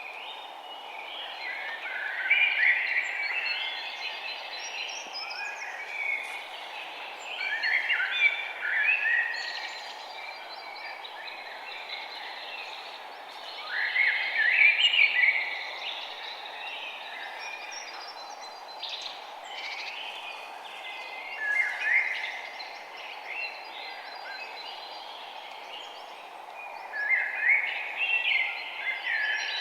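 A songbird singing the same short phrase of quick chirping notes, repeated five times about every six seconds, over a steady background hiss.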